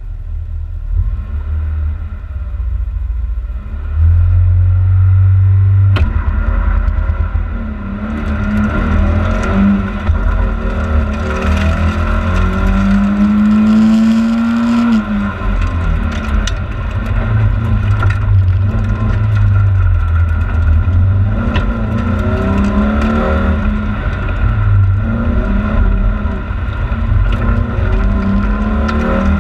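Volvo 940 rally car's engine heard from inside the cabin: held loud and steady for a couple of seconds, then a sharp click about six seconds in, after which the engine note climbs and drops again and again as the car accelerates and shifts gear.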